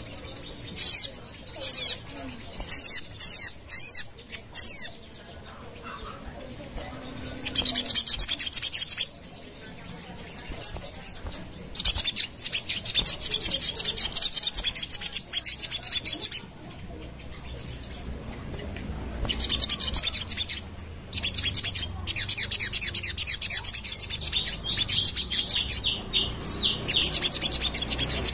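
Sogon bird calling: a few short, sharp, high chips in the first seconds, then long bursts of very fast, high-pitched chattering trills.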